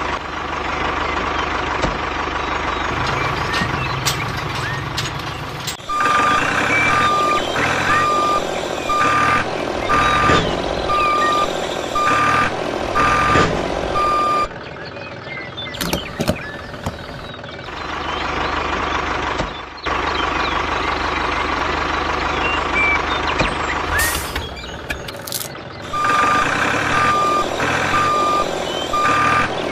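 A vehicle's reversing alarm beeping about once a second over a running engine. The beeping comes in two spells, one from about six to fourteen seconds and one again near the end, with the engine noise in between.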